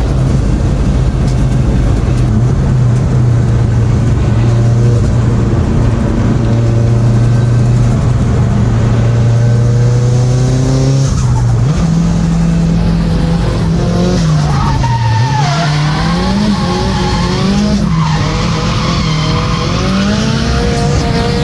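Nissan Silvia S14's turbocharged SR20DET four-cylinder engine held at steady high revs while the tyres skid and squeal through a drift. About halfway through the revs step up and then swing up and down as the car is thrown through further slides.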